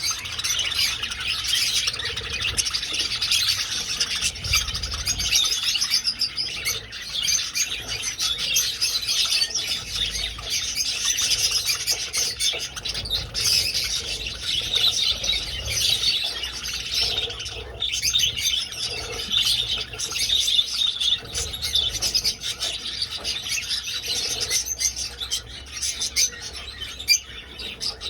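A flock of budgies chattering and chirping continuously, many birds warbling and squawking over one another.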